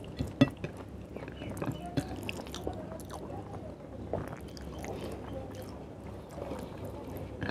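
Close-up eating sounds of a person eating rice and chicken curry by hand: wet chewing with irregular sharp mouth clicks, the loudest about half a second in, and fingers squishing and mixing rice and curry on a plate.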